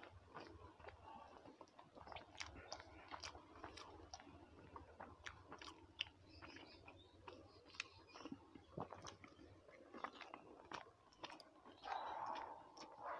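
Faint close-miked chewing and wet mouth clicks of someone eating rice with their hands, many small smacks and crunches. There is a brief louder stretch near the end.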